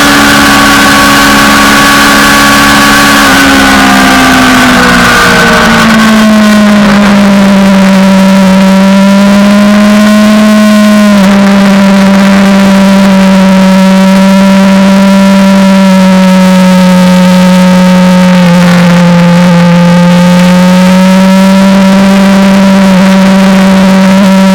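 Suzuki GSX-R600 sportbike's inline-four engine heard from on the bike, running hard over a hiss of wind. The engine note drops a few seconds in, then holds fairly steady with a couple of brief dips.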